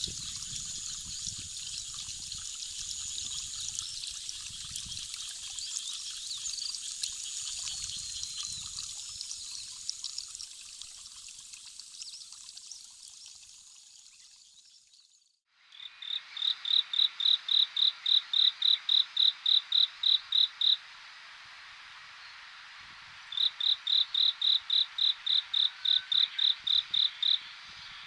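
Rice-paddy ambience of insects and birds over a haze of running water, fading out about halfway. After a brief near-silence, an insect calls in two runs of rapid, evenly spaced chirps, about four or five a second, over a steady background of insect hiss.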